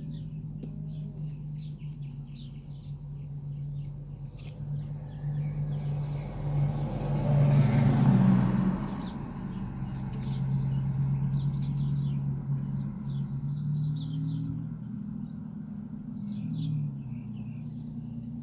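A car passes close by, building to its loudest about eight seconds in and then fading, over a steady low hum. Small birds chirp on and off throughout.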